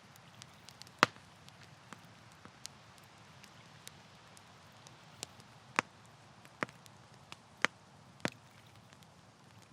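Campfire crackling: sharp, irregular pops and snaps from burning wood over a soft steady hiss, the loudest pop about a second in and a cluster of snaps in the second half.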